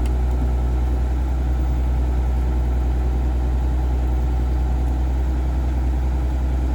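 Excavator's diesel engine idling steadily: a low, even drone that holds constant.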